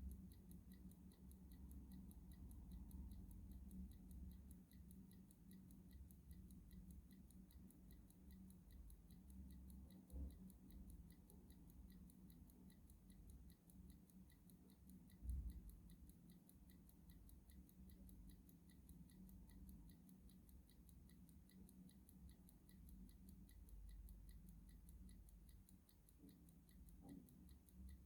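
A clock ticking steadily and faintly, its ticks evenly spaced. A low hum runs underneath, with a brief low thump about halfway through.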